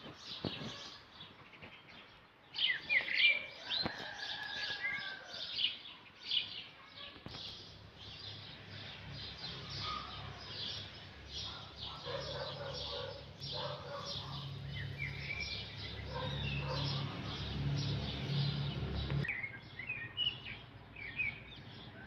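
Small birds chirping and twittering rapidly and continuously, with a few short sweeping calls. A low steady hum comes in about seven seconds in and stops near the end.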